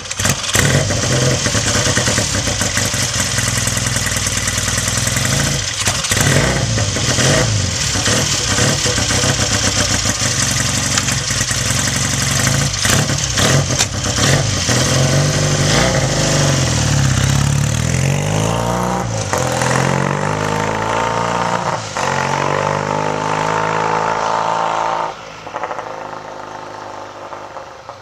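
1968 Triumph T100C's 500 cc parallel-twin engine catching on a cold start after weeks of sitting and running fast and loud, with blips of the throttle that rise and fall in pitch in the second half. Near the end it drops away suddenly to a much quieter sound.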